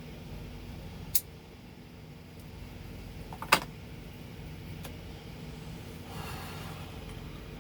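Steady low engine hum, with two sharp clicks, a light one about a second in and a louder one at about three and a half seconds, and a brief soft rustle near the end.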